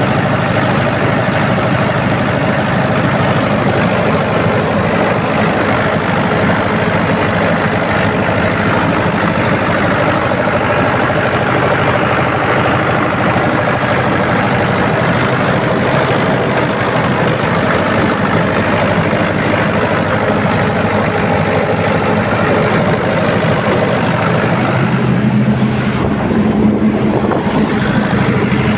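Generator-set engine running steadily at a constant speed. Near the end its sound changes: the hiss thins and a low hum comes forward.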